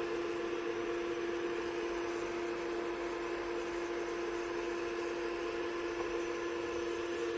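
Steady machine hum with one constant tone, unchanging throughout.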